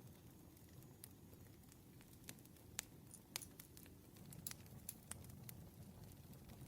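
Wood campfire crackling softly over a low rumble, with irregular sharp pops, a couple of them louder about halfway through.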